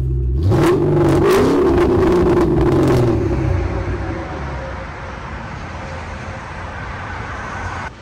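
Car engine revving up, with a rapid run of sharp exhaust crackles for the first few seconds, then settling into a steadier, fading drone that cuts off abruptly near the end.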